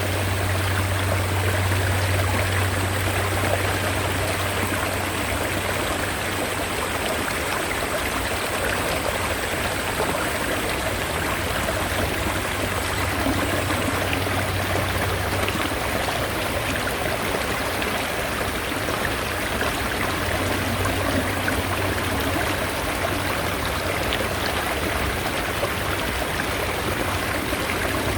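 Mountain stream water rushing steadily, an even unbroken wash of flowing water with a low rumble underneath that is strongest in the first few seconds.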